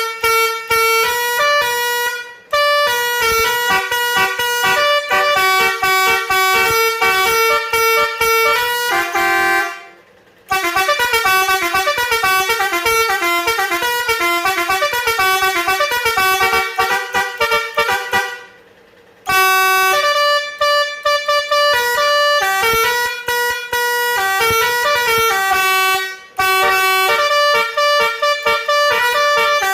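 Road Master 666 eight-tone electronic musical vehicle horn playing its tunes: quick runs of loud, shrill pitched notes, with brief breaks several times as it moves from one tune to the next.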